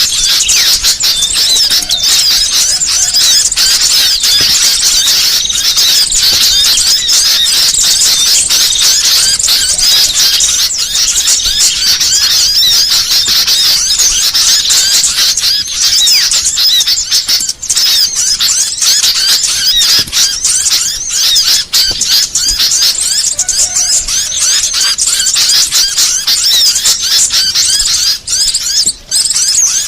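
Continuous, dense, high-pitched twittering and chirping of small songbirds, rapid notes packed one on another with no pause. It is a mixed small-bird (burcil) song recording of the kind used as a masteran to tutor caged songbirds and as a lure call.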